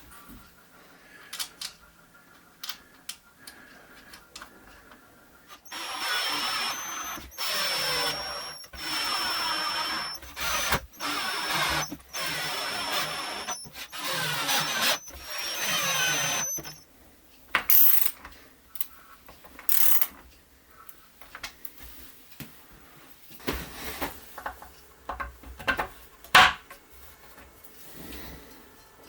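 Electric drill run in a series of short bursts, its motor whining, for about ten seconds from around six seconds in; light clicks and knocks of handling tools and wood before and after, with a few sharp taps.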